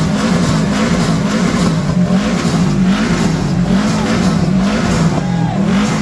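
Car engine revving hard through a loud exhaust, the revs swinging up and down over and over without a break.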